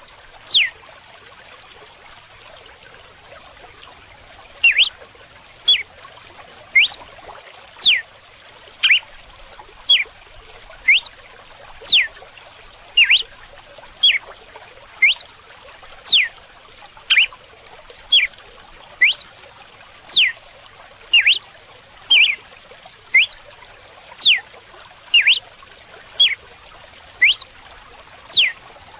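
Red-cowled cardinal (galo-de-campina) singing its whip-like 'açoite' song: short, sharp sweeping whistles about once a second, some sliding up and some down, over a steady trickle of running water. The notes pause for about four seconds at the start, then carry on evenly.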